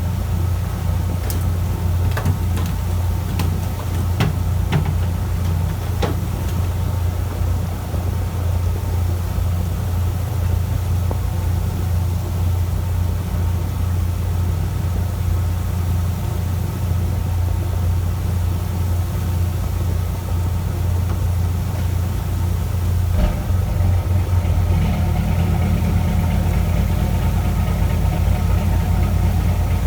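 Fishing boat's engine running steadily with a deep drone, its note shifting and growing a little louder a little past two-thirds of the way through. A few sharp clicks or knocks sound in the first several seconds.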